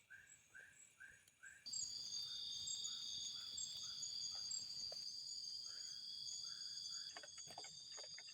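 Tropical forest ambience: insects droning steadily at a high pitch, joined abruptly a couple of seconds in, with a small animal's short chirping call repeating about two to three times a second, and a few faint clicks near the end.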